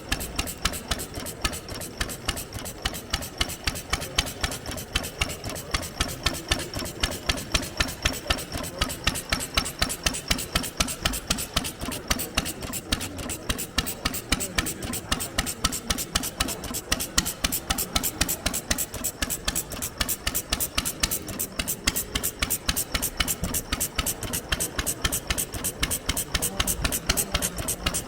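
An old engine idling, a steady and even putt-putt of separate firing beats that keeps the same pace throughout.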